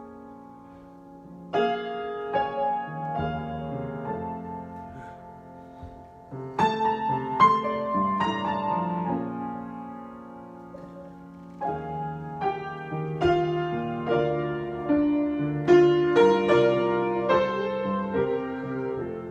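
Solo piano improvisation at a slow pace: phrases of chords and melody notes, each opening with a louder struck chord that rings and fades, about four phrases in all.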